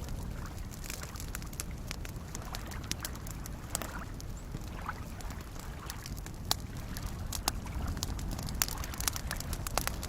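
Campfire crackling, with sharp pops that come more often in the second half, over soft lake waves lapping and sloshing against the shore with a steady low rumble.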